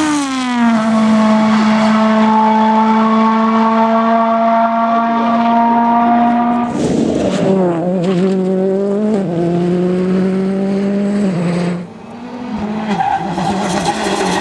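World Rally Car's turbocharged four-cylinder engine at full throttle: the note drops in the first second, then holds steady at high revs for about six seconds. After that it breaks up into quick rev changes and gearshifts, dips briefly near the end, and picks up again.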